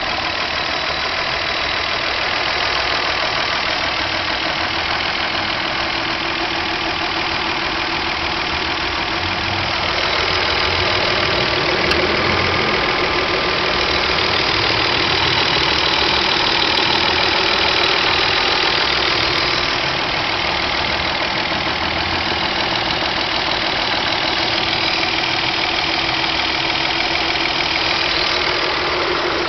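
Mazda Xedos 6's 2.0-litre KF V6 engine running warm, with a clatter coming from the engine. The owner notes that the clatter is quieter once warmed up but still present, and calls it a strange sound without naming a cause.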